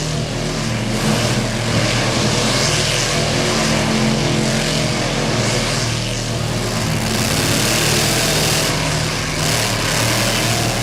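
Loud, steady engine sound effects for a diecast monster truck race: a continuous engine roar with a broad rushing noise over it.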